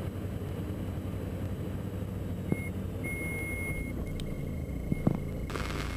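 Diamond DA42 NG twin's engines and propellers rumbling steadily at low power during the landing rollout, heard in the cockpit. About two and a half seconds in, a high electronic cockpit warning tone starts, with a short beep then a longer one, and two brief thumps come a few seconds apart.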